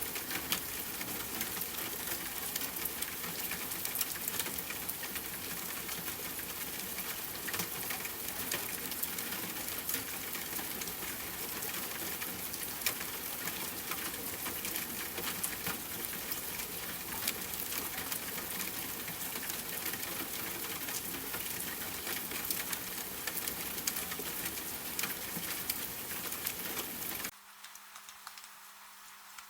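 Steady rainfall, a dense hiss full of small sharp drop ticks. Near the end it cuts off abruptly to a much quieter background with a faint low hum.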